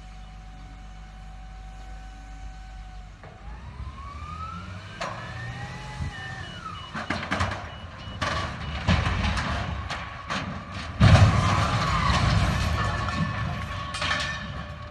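Heavy truck or machinery engine running, its pitch rising and falling, then clattering with several knocks and a loud crash-like impact about eleven seconds in.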